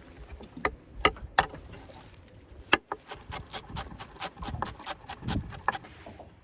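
Knife chopping on a cutting board: a few separate chops, then a quick run of cuts about five a second.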